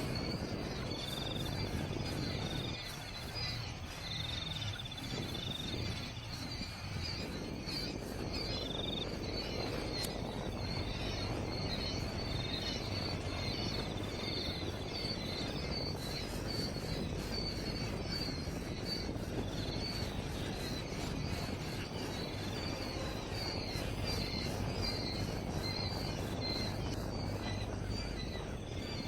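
Birds chirping outdoors: a steady stream of short, high-pitched chirps, with a few longer whistled notes now and then, over a steady low background rumble.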